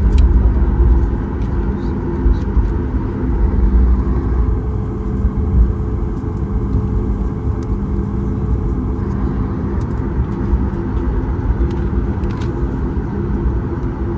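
Cabin sound of a Boeing 737 MAX 8 taxiing: a steady low rumble of its CFM LEAP-1B engines at taxi power and the wheels rolling, with several steady hum tones and a few light clicks and rattles.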